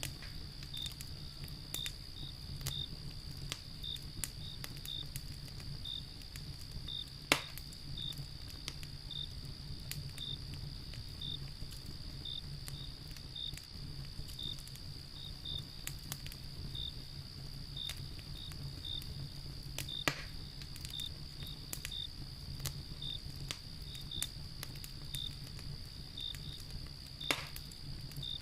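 Wood fire crackling, with small scattered crackles and three sharp loud pops. Crickets or other insects chirp steadily throughout, a high continuous trill with regular chirps about twice a second.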